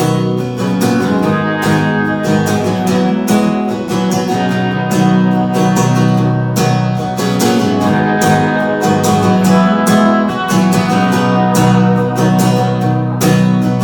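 Acoustic guitar strummed in a steady rhythm, playing an instrumental passage of a live band's song with no singing.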